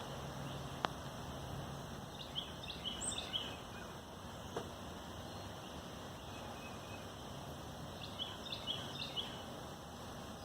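A small bird singing a short phrase of about six quick high notes, twice, several seconds apart, over steady outdoor background noise, with a couple of light clicks.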